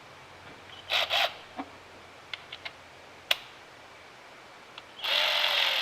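A few light metal clinks and clicks, then about five seconds in a cordless power driver starts up and runs at a steady speed, running down the rocker arm bolts on a 5.9 Cummins cylinder head.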